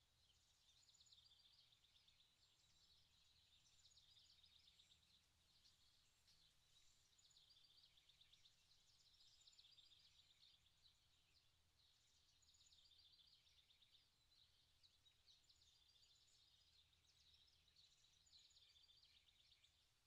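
Faint forest ambience: many small birds twittering, a steady stream of quick high chirps, over a low steady background rumble.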